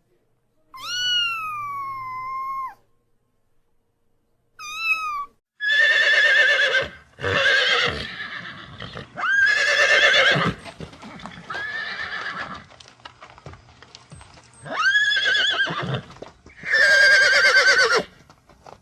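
A cat meows twice, one long falling meow and one short one. Then a horse whinnies about six times in a row, each a loud, shaking call lasting a second or so.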